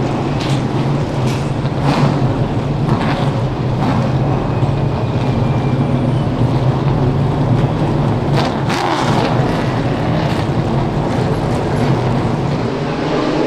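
Stock car engines running steadily as cars circulate around the short track, a constant low engine hum with brief sharper bursts now and then.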